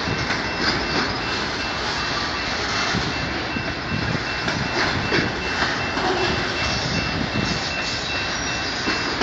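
Freight train of autorack cars rolling past: a steady rumble and rattle of wheels and car bodies with frequent clicks, and a thin, steady high-pitched whine throughout.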